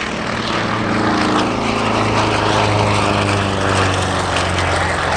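Radial-engined aerobatic propeller airplanes making a low opposing pass, their engine drone swelling loud as they go by.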